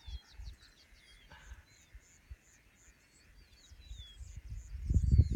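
Small birds calling in grassland: short, high, sweeping twittering notes over an evenly repeated high pulsing call. Near the end a louder, irregular low rumble comes in on the microphone.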